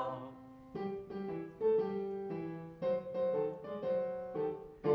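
A held choir chord fades at the very start, then from about a second in a piano plays a short introduction of separate notes and chords before the next song's singing begins.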